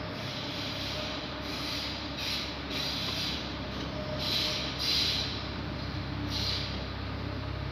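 Electric passenger train running past on a far station track: a steady rumble, with a hiss that swells and fades several times, loudest about five seconds in.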